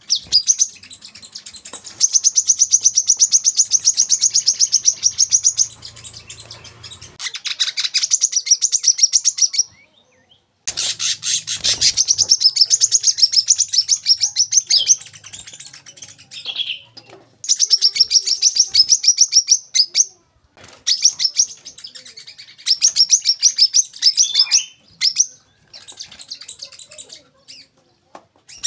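Brown-throated sunbird (kolibri kelapa) singing: fast, high trills of rapidly repeated notes, in bursts of a few seconds separated by short pauses.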